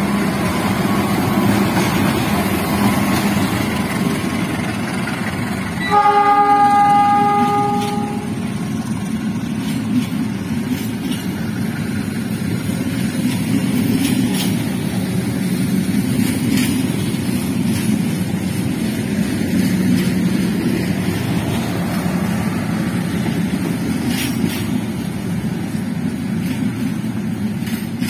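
A passenger train passes: a diesel locomotive and then its coaches roll by with a steady heavy rumble. About six seconds in, the train horn sounds for about two seconds.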